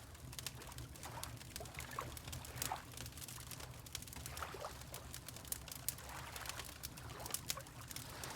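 Log fire crackling with frequent sharp pops and snaps, over a steady low rumble and gentle water lapping.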